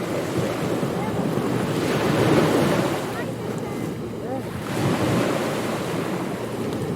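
Ocean surf washing onto a beach, a steady rush that swells loudest about two seconds in and again about five seconds in.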